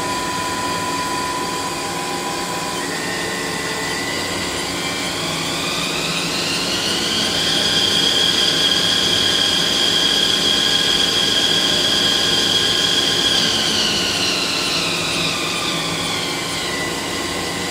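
Haas SL-30T CNC lathe spindle running with a whine that rises in pitch as it speeds up, holds steady at top speed, then falls as it slows down.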